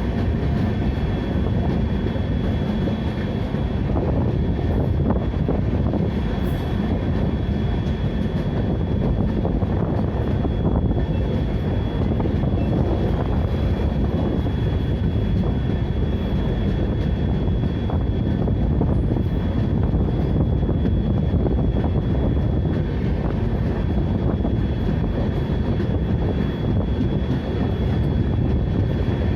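Steady rumble of a train in motion, with a thin high whine over it.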